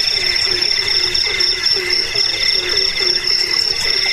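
A night chorus of crickets and other insects trilling steadily in high, pulsing notes, over a frog giving short low croaks about three times a second.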